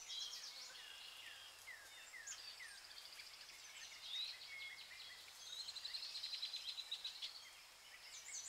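Several birds calling together: short downward-sweeping whistles and high chirps, with a fast trill in the second half.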